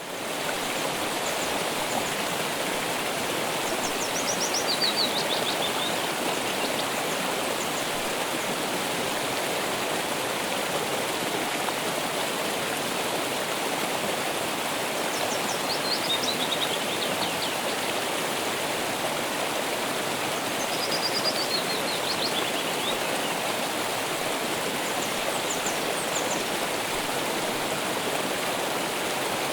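A stream running steadily as an even rush of water. A bird sings a short phrase of quick high notes that falls in pitch, four times.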